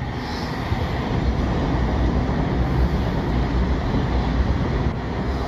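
Multiple-unit passenger train running through the station and passing directly beneath the footbridge, a steady low rumble that swells a little as it goes under.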